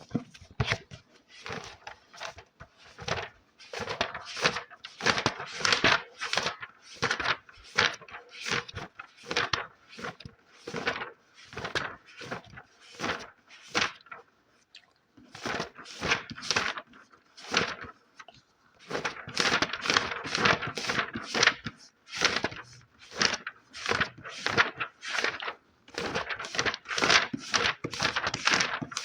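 Rhythmic scratching strokes on an ASMR trigger object, about two a second, in runs broken by a few short pauses.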